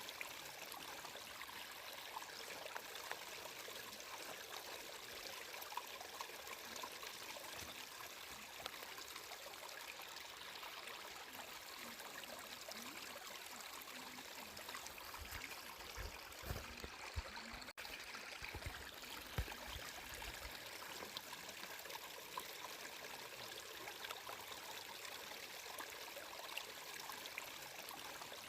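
Flowing water running and trickling steadily, like a small stream, with fine splashy ticks throughout and a few low bumps in the middle. The sound cuts out for an instant about two-thirds of the way through.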